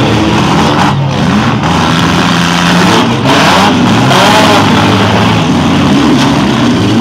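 Several compact-car engines revving hard and overlapping, their pitch rising and falling as the cars push and ram one another.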